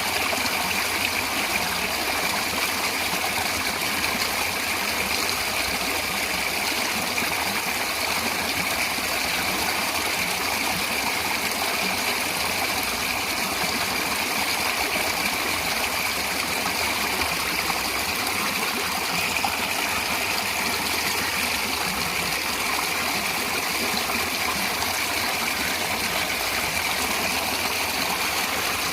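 Natural water flowing in a steady, unbroken rush.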